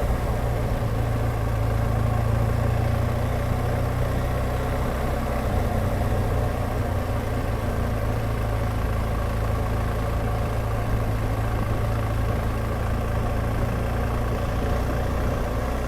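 BMW R1200GSA's boxer-twin engine running steadily, its note holding even without revving up or down.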